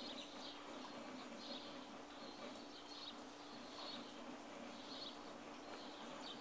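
A bird chirping repeatedly, short high calls about once a second, over a faint low steady hum.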